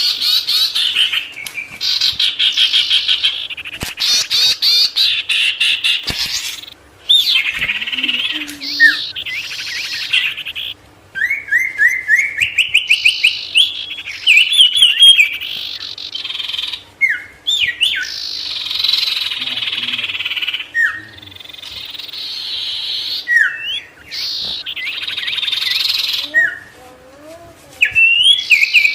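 A songbird that Indonesian bird keepers call 'sirtu' singing a loud, varied song in bursts: fast chattering trills, runs of quick rising notes, and short downward-swept whistles, with brief pauses between phrases.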